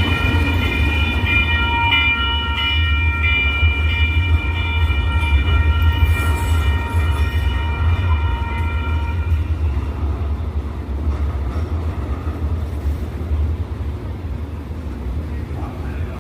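Light rail train running past with a heavy low rumble and a steady high whine made of several tones, which fades away about ten seconds in while the rumble carries on.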